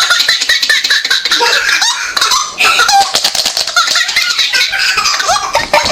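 A child laughing among clucking chickens: a dense run of short clucks and clicks with bits of giggling throughout.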